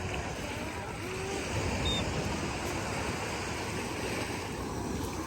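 Steady outdoor seaside noise of surf washing and wind on the microphone.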